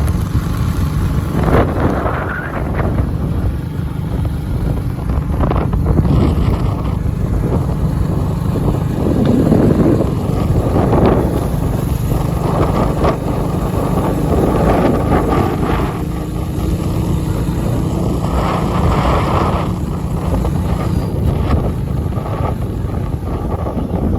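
Wind buffeting the microphone in gusts over the steady running of a motorcycle engine while riding.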